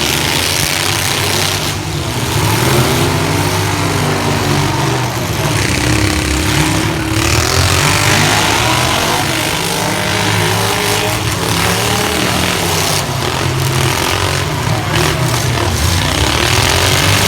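Several compact pickup truck engines revving at once, their pitches rising and falling and overlapping over a steady low rumble.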